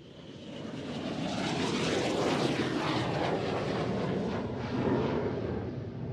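Fixed-wing aircraft flying past, its engine noise swelling over the first two seconds, holding loud, then easing off near the end.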